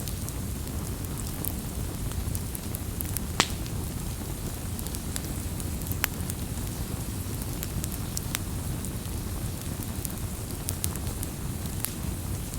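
Campfire crackling: a steady low rumble of burning wood, with scattered sharp pops and snaps. The loudest pop comes about three and a half seconds in.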